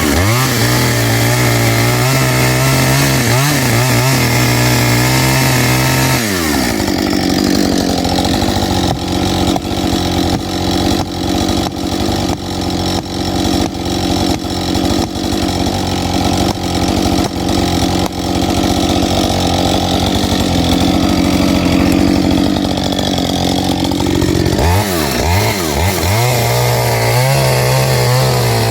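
Chainsaw revving high, then cutting wood under load with its pitch pulled down for about eighteen seconds, then revving high again near the end.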